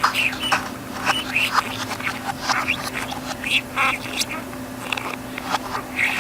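Budgerigar chattering and warbling in a fast, continuous string of short chirps, over a steady low hum.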